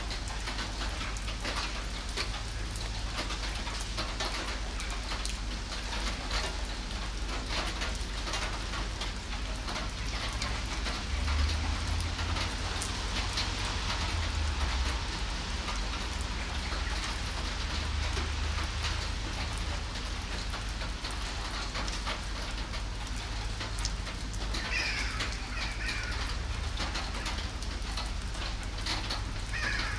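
Steady rain falling on pavement, with many separate drops ticking close by.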